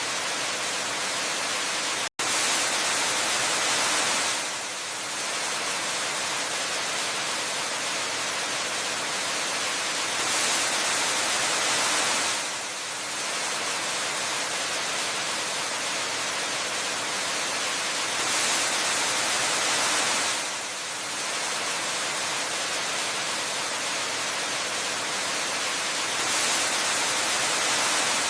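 Steady, hissing rush of a waterfall, light on low rumble, swelling slightly and easing back about every eight seconds. It cuts out for an instant about two seconds in.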